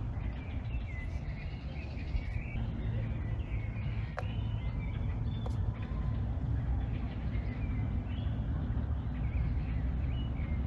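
Small birds chirping and singing in short phrases over a steady low rumble.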